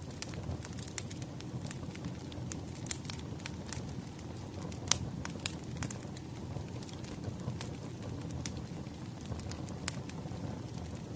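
Wood fire crackling: a low steady rumble of burning logs with irregular sharp pops and snaps, the loudest about five seconds in.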